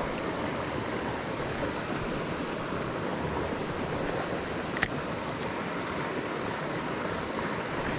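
Steady rush of a mountain creek's flowing water, with a single short sharp click about halfway through.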